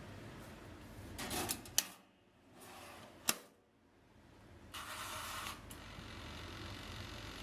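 Handling noises: short rustling or scraping bursts and two sharp clicks about a second and a half apart, over a low steady hum.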